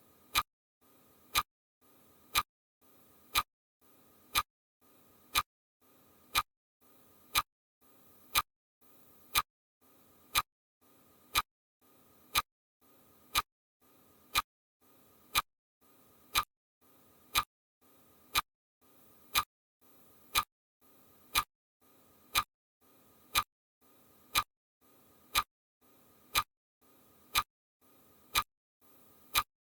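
Steady mechanical ticking: one sharp click exactly once a second, each with a short faint trail after it, perfectly even throughout.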